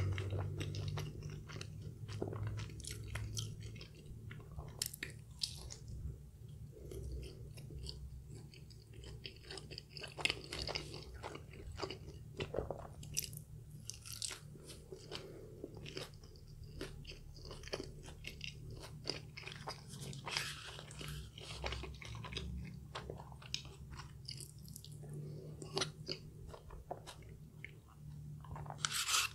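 Close-miked chewing of a crispy KFC Zinger tortilla wrap, with many short crunches and crackles from the fried coating and wet mouth sounds.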